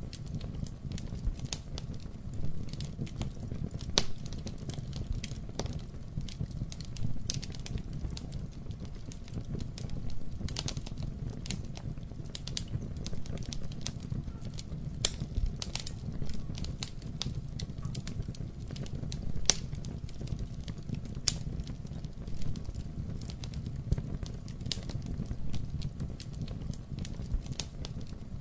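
Campfire burning, the wood crackling with many sharp, irregular pops over a steady low rumble.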